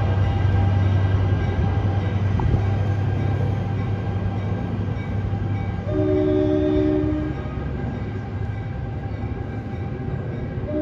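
NJ Transit Alstom ALP-45A dual-mode locomotive running on its diesel engines with a steady low drone as the train pulls away, growing fainter. The train's horn sounds one chord blast of a little over a second about six seconds in, and another starts right at the end.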